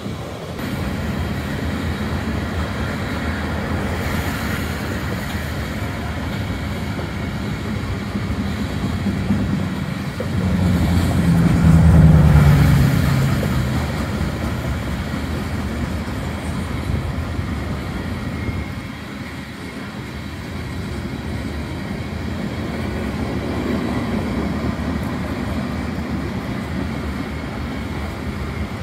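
Freight train's covered hopper cars rolling past, a steady rumble of steel wheels on rail, growing louder for a few seconds around the middle.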